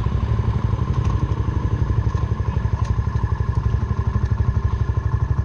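Suzuki Van Van 125's single-cylinder four-stroke engine idling through an aftermarket full exhaust system, a steady, even chugging of about a dozen pulses a second.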